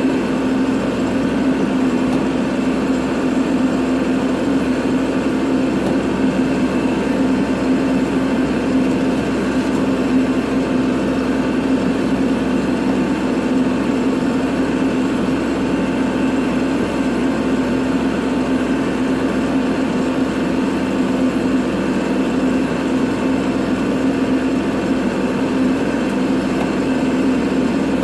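Kubota tractor's diesel engine running steadily at a constant pitch, with no change in speed.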